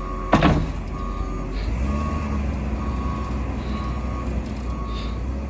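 Vehicle reversing alarm beeping about once a second over a low engine rumble, with one sharp loud knock near the start.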